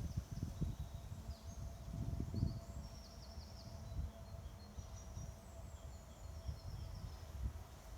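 Wind rumbling on the microphone, with faint high-pitched bird chirps and twitters coming and going, busiest a few seconds in.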